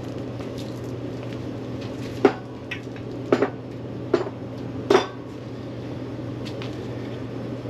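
Four sharp metallic clinks of tools or parts being handled, about a second apart, over a steady low hum.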